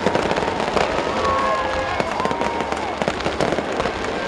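Fireworks display going off: a dense, steady run of crackling pops and bangs.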